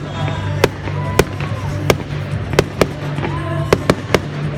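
Fireworks exploding in a display: sharp bangs at irregular intervals, roughly every half second, over music with a steady low bass.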